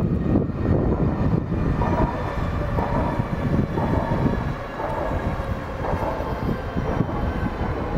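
Alstom X60 electric commuter train, two units coupled, passing close by: a steady wheel-on-rail rumble with a brighter clatter coming back about once a second.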